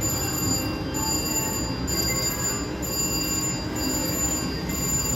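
Casino slot-floor din: high electronic ringing from slot machines, pulsing about once a second, over a steady background hubbub.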